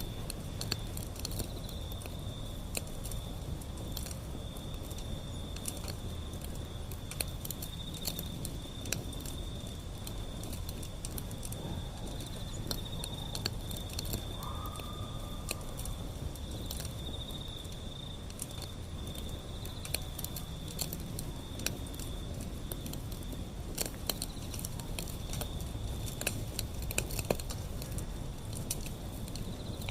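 Wood fire burning steadily, with irregular crackles and pops over a low rumble. A steady high trill runs alongside throughout.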